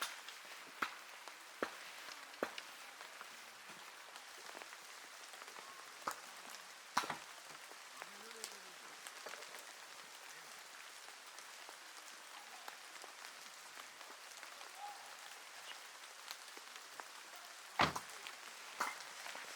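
Steady rain, with a few sharp knocks or heavy drips scattered through it; the loudest knock comes near the end.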